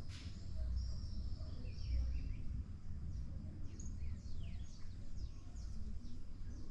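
Wild birds chirping, many short falling calls one after another over a low steady background rumble.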